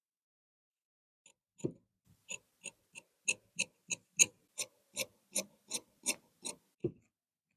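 Tailor's shears cutting fabric in a quick run of short snips, about three a second, each a crisp click with a dull knock of the blade on the table; the snips stop about a second before the end.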